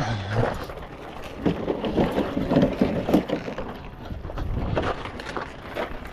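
A portable engine hoist pushed along on its casters over rough ground, its metal frame and wheels clattering unevenly.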